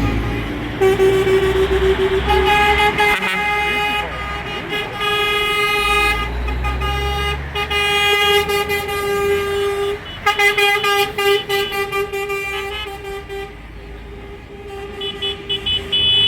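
Vehicle horns honking in long held blasts, with engines rumbling underneath.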